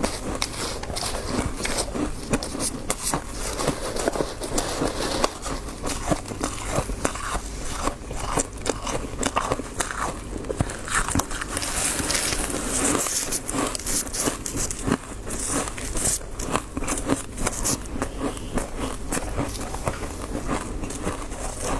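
Close-up biting and chewing of crisp frost: dense, irregular crunching and crackling with no steady rhythm, heaviest around the middle, over a faint low hum.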